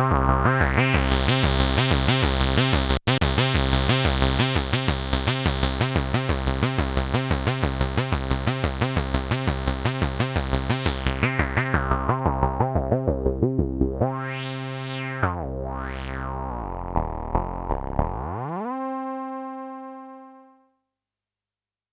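Behringer K-2 analog monophonic synthesizer (an MS-20 clone) playing a fast repeating bass sequence of about four or five notes a second, its filter opening to a brighter, buzzier tone and then closing again. Near the end come two sweeps up and down, then a single note glides up in pitch, holds, and fades out.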